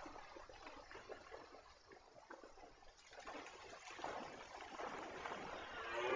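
Steady rushing, trickling noise that swells in the second half. Right at the end a rutting deer stag's roar begins, a deep pitched call that rises sharply.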